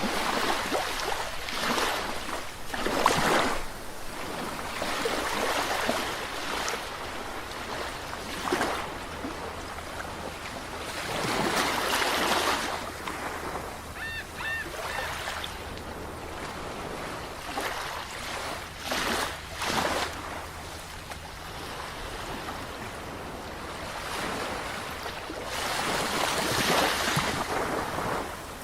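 Sea waves breaking and washing up a shore, swelling and ebbing every few seconds. About halfway through, a bird gives a quick run of four or five short, high calls.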